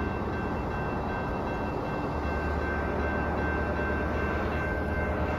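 Amtrak ALC-42 Charger diesel-electric locomotive idling while stopped at a station: a steady low engine hum with thin, steady high whines over it.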